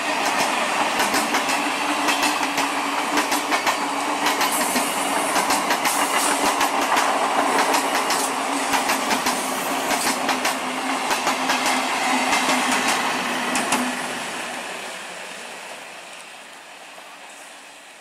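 Electric multiple unit local train passing on the adjacent track: steady running noise with many sharp clicks of the wheels over the rail joints and a steady low hum. About fourteen seconds in, the noise fades away as the last coaches move off.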